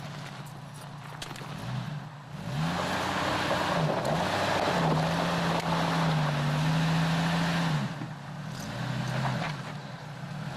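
Jeep Cherokee's engine revving up about two seconds in and held at high revs for several seconds under a loud rushing noise, then dropping back, with a shorter rev near the end.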